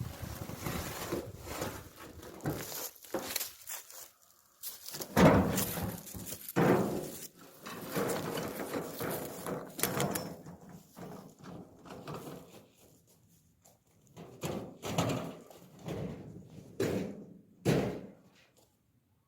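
An empty cart, most likely a wheelbarrow, rattling and clanking as it is pushed along, in irregular knocks and thunks with a short lull partway through.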